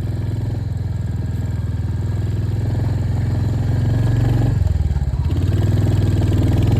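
Royal Enfield Hunter 350's single-cylinder engine running steadily under way, with an even low thump. The note briefly drops and picks back up about four and a half seconds in, and it grows slowly louder.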